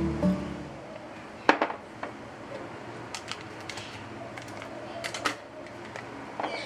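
A few sharp, light clicks and knocks of objects being handled in a small room, the loudest about a second and a half in. Guitar music fades out at the very start.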